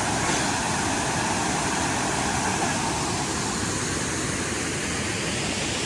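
Steady rushing noise of a waterfall, an even hiss of falling water that neither rises nor fades.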